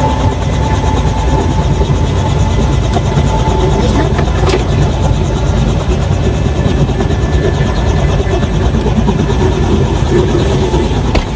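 Helicopter running: a loud, steady rumble that keeps up without a break.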